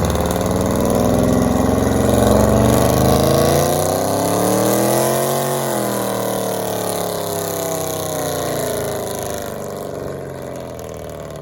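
A car engine revving loudly, its pitch climbing steadily for about five seconds and then falling away, cutting off abruptly at the end.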